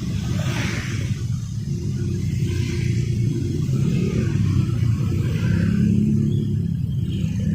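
Street traffic: a steady low rumble of passing vehicles, with a few brief hissing swells as individual vehicles go by.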